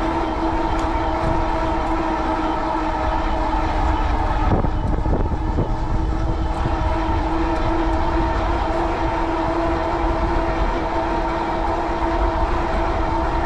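Fat-tire e-bike with a rear hub motor cruising at speed: a steady whine with its overtones, over low wind rumble on the microphone.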